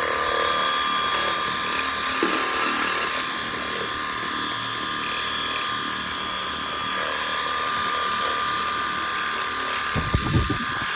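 Stihl RCA 20 cordless pressure washer running steadily: a pump-motor whine with the hiss of the water jet. A few low bumps near the end.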